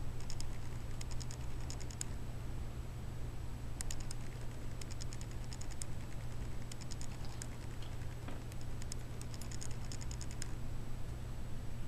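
Shih tzu hiccuping: short clusters of quick, light clicks every second or two, over a steady low hum.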